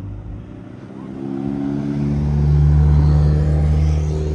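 A car engine revving up loudly: the engine note builds from about a second in, holds at its loudest, then eases slightly near the end.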